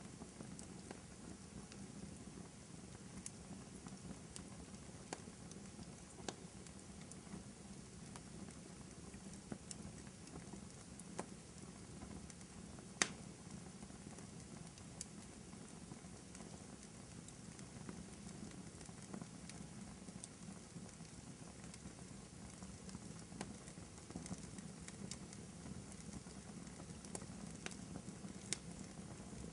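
Wood fire crackling in a fireplace: a steady low rumble with scattered sharp pops, the loudest about halfway through.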